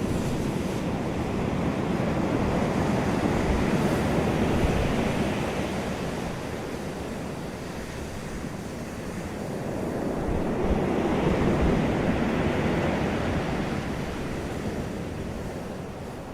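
Wind and surf rushing, swelling louder twice and easing back in between, with wind buffeting the microphone.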